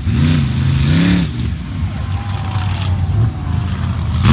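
Monster truck engine revving hard, its pitch rising and falling in the first second or so, then running steadier before surging again at the very end.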